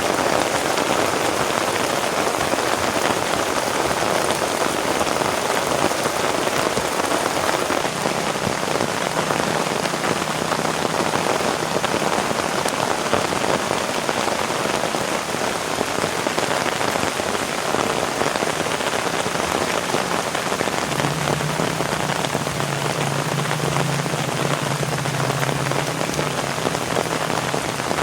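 Heavy rain falling steadily, a dense even hiss of drops. A faint low drone comes in under it partway through and is strongest near the end.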